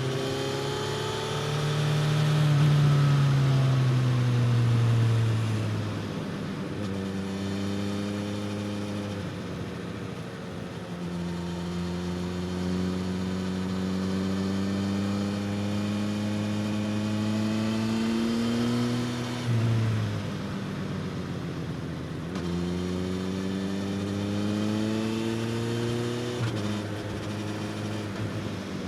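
Suzuki GSX-S1000 inline-four engine with a slip-on exhaust pulling hard on track: the engine pitch climbs and then drops at each gear change, several times over. It is loudest a few seconds in.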